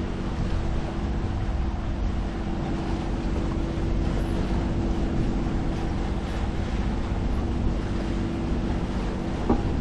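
Sailboat's engine running steadily under way, a low hum over water rushing past the hull and wind on the microphone. A brief rising chirp near the end.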